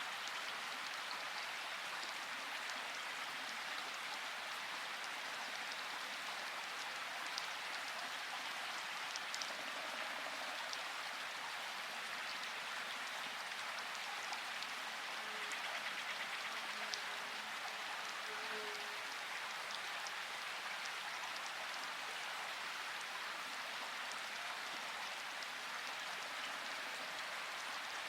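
Steady rain falling, an even hiss of drops with a few sharper, louder drop ticks scattered through.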